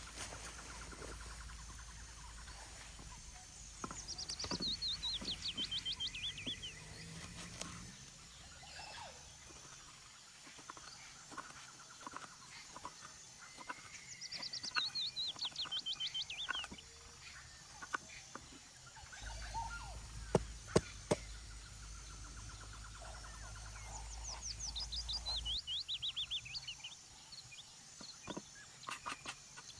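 A songbird singing three times, about ten seconds apart, each song a quick run of notes falling in pitch over about three seconds. A few sharp clicks come between the songs.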